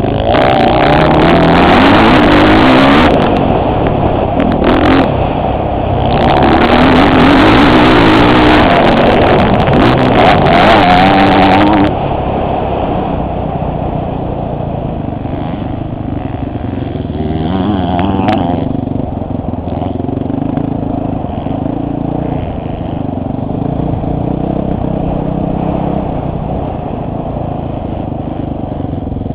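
Motocross dirt bike engine revving hard, its pitch climbing and dropping, for about the first twelve seconds, easing briefly around three to six seconds in. After that it runs at lower, steadier revs.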